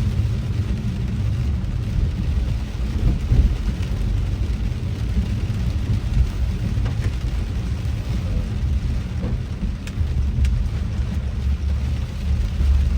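Inside a car driving in heavy rain: a steady low rumble of the car and tyres on the wet road, with the hiss of rain and a few sharp ticks of drops on the car.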